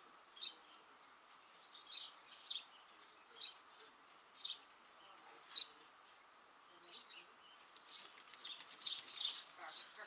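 Small songbirds chirping: short, high chirps about once a second, growing busier and more overlapping in the last few seconds.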